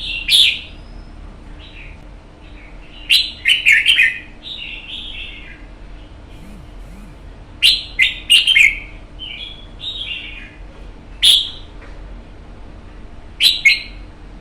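Red-whiskered bulbul singing in loud, sharp phrases that come in bursts every few seconds, with quieter warbling notes between them.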